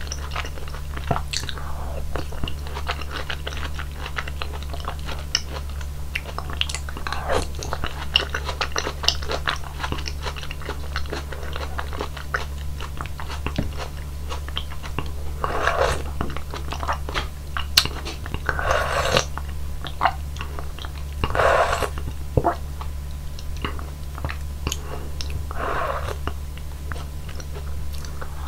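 Close-miked chewing of soft, juicy fruit from a bowl of hwachae (Korean fruit punch), with wet lip smacks and small mouth clicks and a few louder wet bites or slurps in the second half, over a steady low hum.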